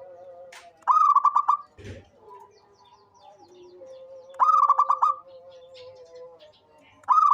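Zebra dove (perkutut) singing its cooing song. Each phrase is a quick run of pulsed notes, and the phrases repeat about every three and a half seconds. Faint chirps from other birds sound in the gaps.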